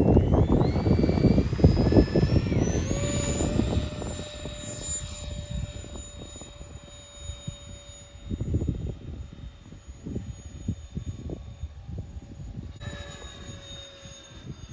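Twin 70 mm electric ducted fans of an RC A-10 jet whining, the pitch rising over the first few seconds and then holding steady. Gusty wind buffets the microphone, loudest at the start and again about eight to eleven seconds in. Near the end a second whine cuts in abruptly.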